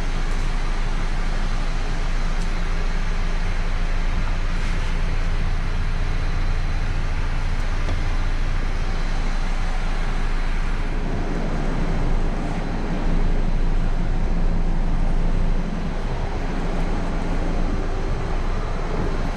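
Steady low machine hum under a constant rushing noise, a little louder for a few seconds past the middle.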